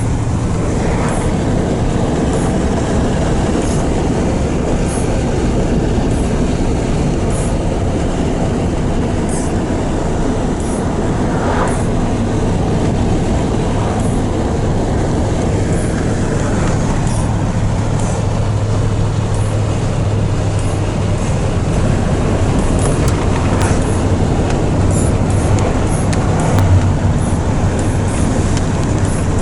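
Pickup truck driving, heard from inside the cab: a steady low engine hum and road rumble, with small ticks and rattles scattered through it.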